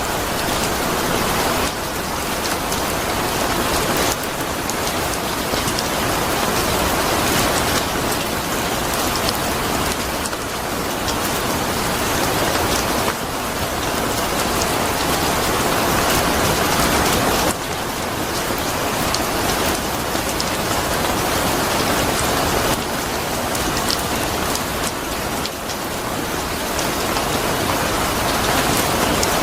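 Steady rain falling on a surface: an even hiss with fine individual drop ticks, its texture shifting abruptly a few times.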